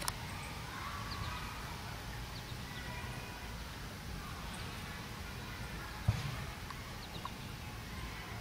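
Steady low outdoor rumble with a few faint, short, high chirps scattered through it, and a single sharp thump about six seconds in.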